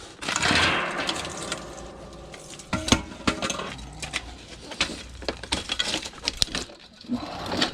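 Clattering and knocking of discarded junk being handled and shifted about, with irregular sharp knocks, the loudest about three seconds in.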